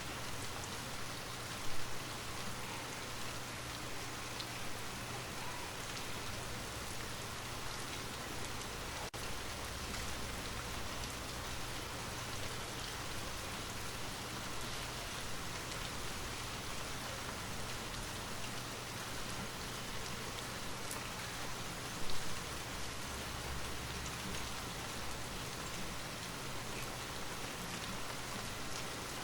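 Steady rain falling, an even hiss with no let-up. Two brief louder moments stand out, about two seconds in and again about 22 seconds in.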